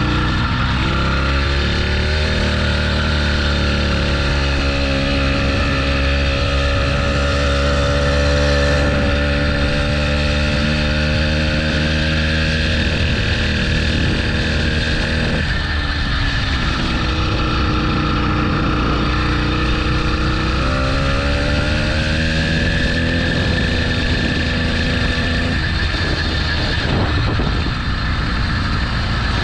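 80cc motorbike engine running under throttle, its pitch climbing about a second in and holding, dropping off about halfway through, then climbing again and falling back near the end.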